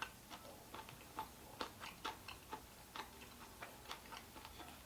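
Faint, irregular clicking mouth sounds of someone chewing grilled pork ribs, a few small clicks a second.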